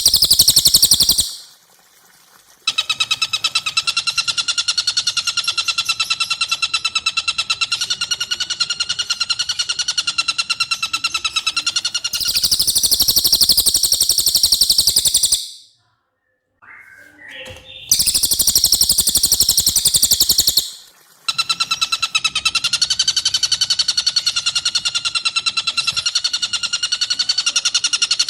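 Recorded song of a cililin and the long cackling call of a tengkek buto, played in turns. Long, very fast pulsed trills of several seconds alternate with shorter, louder bursts of very high, rapid trilling.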